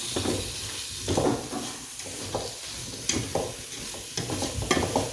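A spoon scraping and stirring in a pot over the heat in irregular strokes, with a steady sizzle underneath: sugar being stirred as it melts for quentão.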